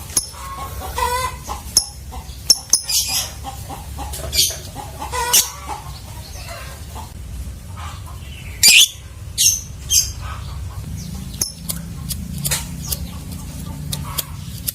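Lovebirds calling: sharp, shrill chirps and bouts of chatter at irregular intervals, with the loudest calls about nine seconds in.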